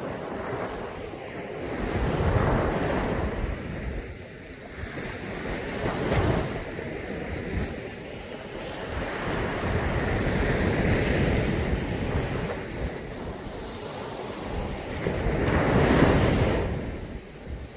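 Caribbean sea waves breaking and washing up a beach in repeated surges, each swelling and falling back over a few seconds, the loudest near the end.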